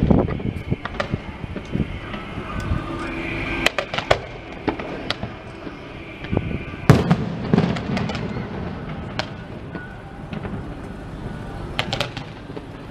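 Fireworks display: a running series of bangs and crackles from bursting aerial shells, the loudest bang about seven seconds in.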